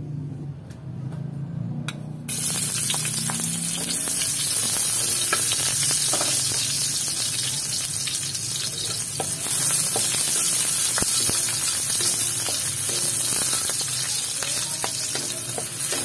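Sliced onions hitting hot oil in a wok: a sudden loud sizzle about two seconds in, then steady frying with scattered small pops.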